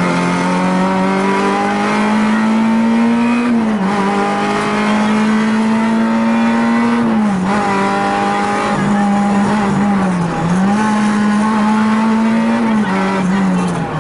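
Rally car engine heard from inside the stripped cabin, held at high revs under hard driving. Its pitch steps down briefly about four times, roughly every three to four seconds, and climbs straight back up each time.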